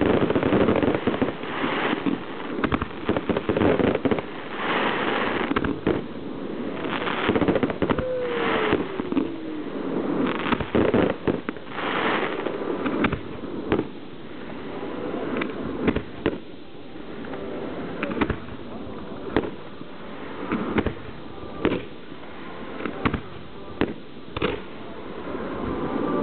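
Fireworks going off: a quick run of bangs and crackling bursts that thins out to separate reports in the second half, with a falling whistle about eight seconds in.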